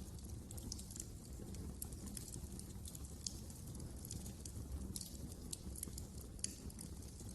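Wood fire crackling: irregular sharp pops and snaps over a low steady rumble of the flames, with a louder pop about three seconds in and another near the end.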